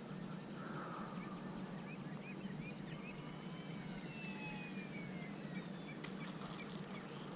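Faint whine of the E-flite UMX Air Tractor's small electric motor and propeller as it flies by, its pitch sliding down around the middle as it passes. A steady low hum runs underneath, with short chirps scattered through.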